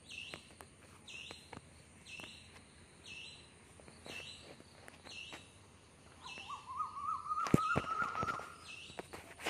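Background birdsong: a short high call repeated about once a second, joined from about six seconds in by a louder, wavering, slightly rising call that lasts about two seconds. A few sharp clicks come near its middle.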